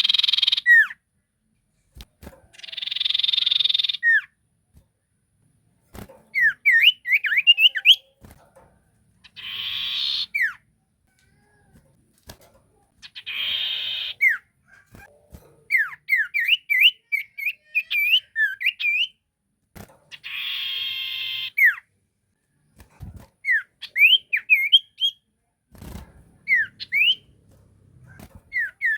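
A sirtu songbird calling, as played for a lure: harsh buzzy rasps about a second and a half long, each ending in a short falling note, alternate with quick runs of sharp high chirps.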